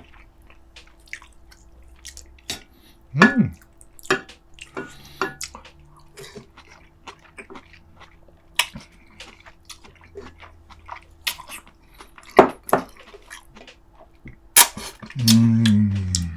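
Close-up eating sounds: wet lip smacks and chewing with scattered sharp clicks, and a few louder knocks of utensils on dishes. A short hummed 'mm' comes about three seconds in, and a longer one near the end.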